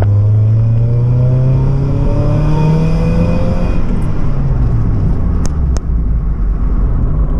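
Mazda Miata's four-cylinder engine through a freshly fitted aftermarket Roadster Sport exhaust, accelerating with its note rising for about three and a half seconds, then falling back as the throttle is lifted and settling to a low, steady running note. Two sharp clicks come about two seconds before the end.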